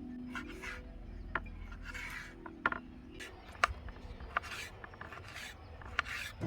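Irregular rasping, scraping strokes with several sharp clicks between them, over faint background music.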